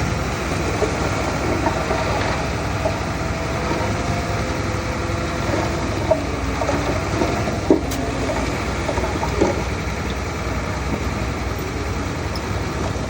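Heavy diesel earthmoving machine's engine running steadily, with three short sharp knocks near the middle.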